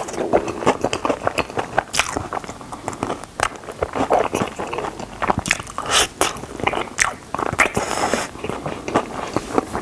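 Close, loud biting and chewing of crunchy fried chicken drumsticks, with irregular crisp crunches several times a second and wet chewing between them.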